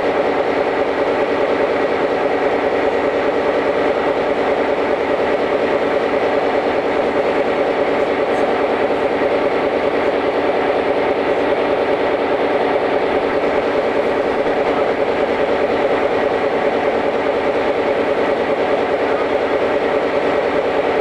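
NMBS/SNCB diesel locomotive 5519's engine running steadily, its pitch and level unchanging.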